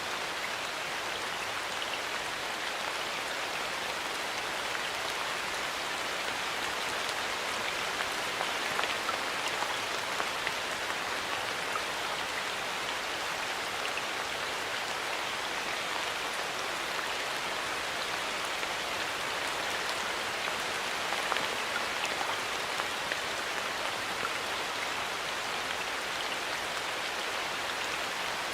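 Steady rain falling in a forest, an even hiss with many small drops pattering.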